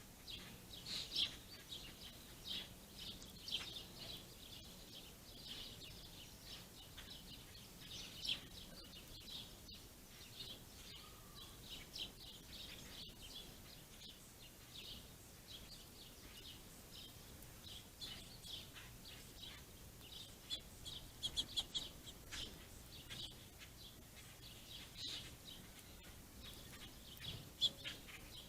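Small songbirds chirping: many short, separate chirps, faint and scattered, with a quick run of chirps about three-quarters of the way through.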